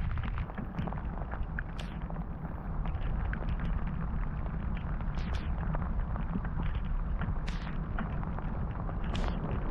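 Heavy rain falling, with many sharp drop hits close to the microphone over a steady low rumble.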